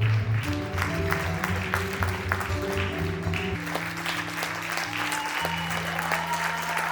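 Audience applauding over background music with sustained low notes.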